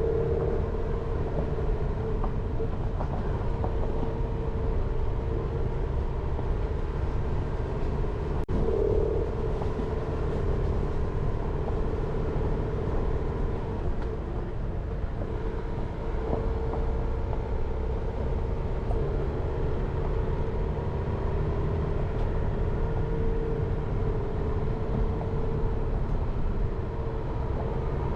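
Jeep Renegade driving along a forest road: steady engine and tyre noise with a deep rumble and a constant hum, and one sharp click about eight and a half seconds in.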